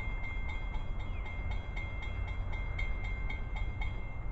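A train rolling past with a steady low rumble. A faint, high, regular ringing pulse repeats about four times a second over it.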